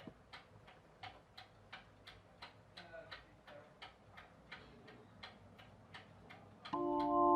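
Clock ticking steadily, about three ticks a second. Near the end, music with held chords comes in.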